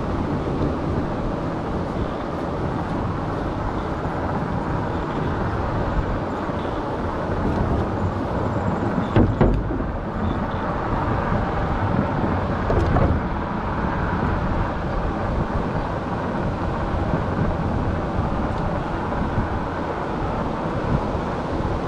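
Steady rushing wind and road noise on a chest-mounted camera while riding an e-bike, with two brief thumps about nine and thirteen seconds in, the first the louder.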